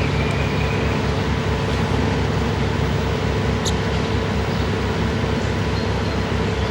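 Loud, steady machine noise with a low throbbing of about five pulses a second. A single short, sharp chip note, as of a young northern cardinal, cuts through about halfway.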